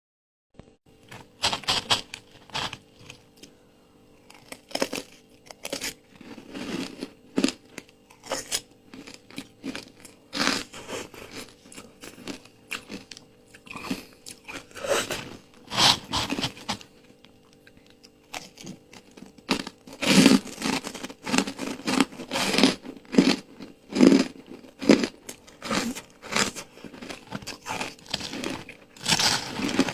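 Close-up crunching of ice dusted with matcha powder as it is bitten and chewed, in irregular crunches with short pauses between them, coming thicker and louder about two-thirds of the way in.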